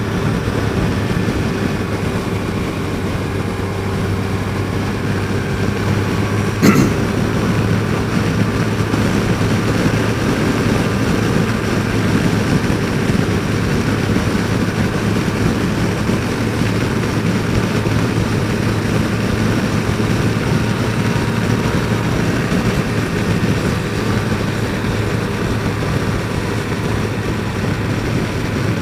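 Yamaha FJR1300's inline-four engine running steadily while riding, heard through a helmet mic, with one sharp click about seven seconds in.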